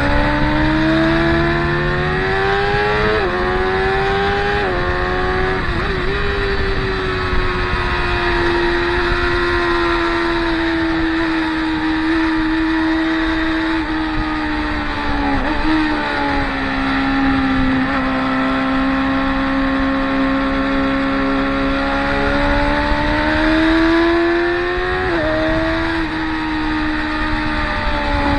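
Racing motorcycle engine running hard at high revs, with quick gear changes a few seconds in: the pitch jumps in steps and then holds steady. Later it dips sharply once and rises again near the end.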